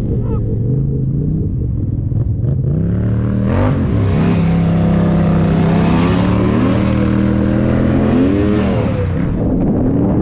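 Two-stroke ATV engine, the old Polaris Scrambler 400, accelerating on a trail. Its pitch climbs several times in a row as it is revved up and shifted, then eases off near the end.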